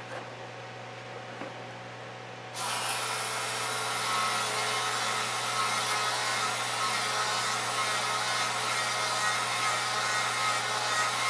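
Dremel rotary tool switched on about two and a half seconds in, then running steadily with a high whine, polishing the inside of a bronze sleeve bushing that is too tight on the gearbox shaft.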